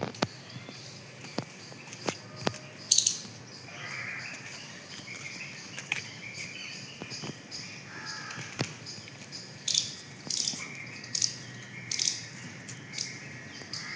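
Birds chirping outdoors. Short sharp high sounds come through it now and then, with a run of them about two a second in the last few seconds.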